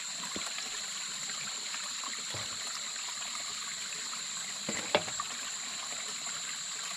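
Water trickling steadily in a small hillside water channel, with one sharp click about five seconds in.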